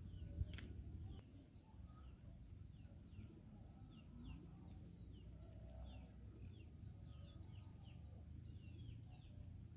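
Faint short, high chirps of small birds, each sliding downward, repeating irregularly over a faint low rumble.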